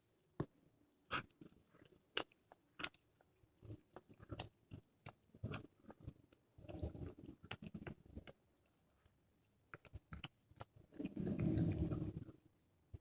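A cat chewing and crunching through a squirrel carcass: a string of sharp crunches and bites as it works on bone. About halfway through and again near the end, a longer low rumbling sound comes in, the loudest thing heard.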